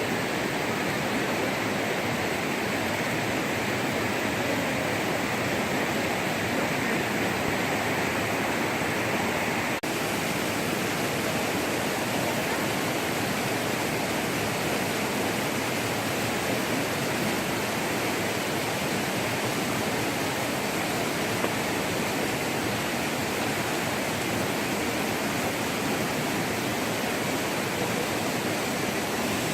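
Steady rush of flowing water, an even noise without pauses or tones, with a brief break about ten seconds in.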